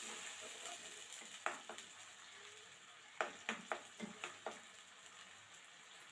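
Sliced onions frying in oil and a little coconut milk in a non-stick kadai, a faint steady sizzle. A metal spatula scrapes and knocks against the pan about half a dozen times in the middle, then the stirring stops.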